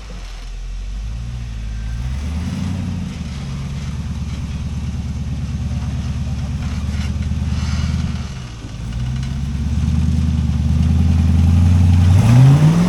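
Off-road rock-crawling rig's engine running under load, its pitch stepping up and down with the throttle, dipping briefly about eight seconds in and rising sharply in a rev near the end.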